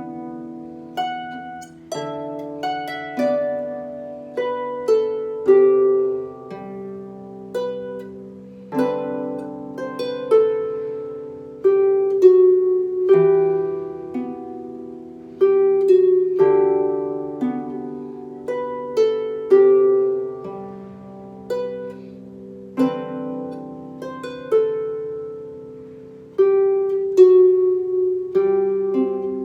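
Harp played solo, slow plucked notes of a simple melody over lower bass notes, each note ringing and slowly dying away.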